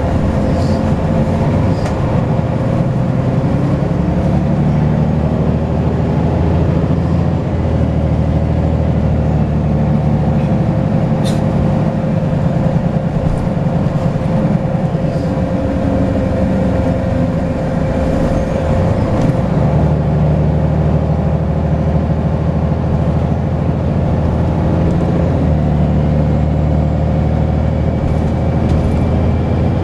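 Volvo B10BLE bus's turbocharged six-cylinder diesel engine running under way, its note rising and falling several times as it pulls and eases off. A steady turbo whistle runs over it, and a higher whistle climbs near the end.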